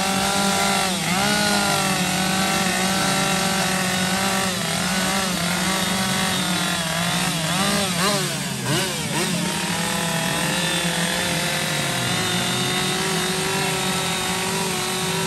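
Chainsaw carving wood, its engine running steadily at high revs. The pitch sags and wavers briefly about a second in and again around eight to nine seconds in.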